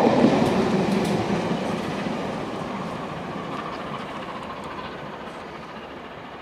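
A train running away along the track after passing beneath, its rumble and wheel noise fading steadily into the distance.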